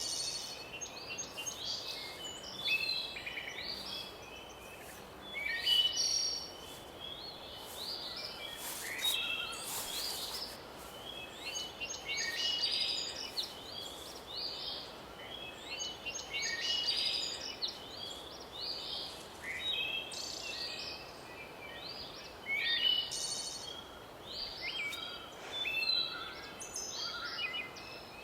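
Several songbirds singing over one another in woodland, a steady stream of quick chirps and trills, over a faint background hiss.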